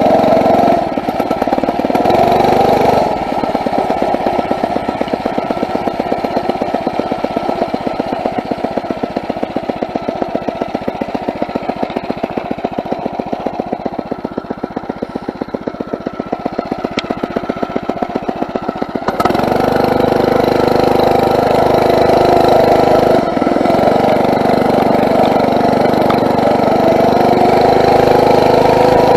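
Small four-stroke motorized-bicycle engine (Phatmoto) running on a ride, at first at low throttle with a rapid even putt-putt beat. About two-thirds of the way in, the throttle opens and it pulls at a steady, higher pitch, with a short let-off partway through. The owner says this engine runs rich.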